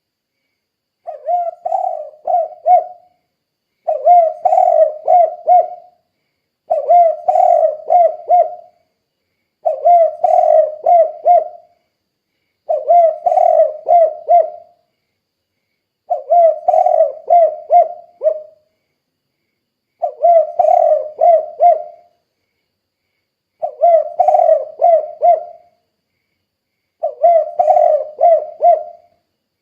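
Spotted dove (tekukur) cooing in full voice, the 'kuk 2' song type: nine phrases of several low coos each, repeated about every three seconds with silence between.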